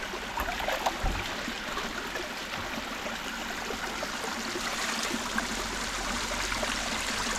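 A stream flowing steadily, with a few light knocks in the first second.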